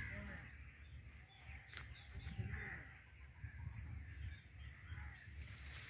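Faint bird calls, several short arched calls scattered over a low steady rumble.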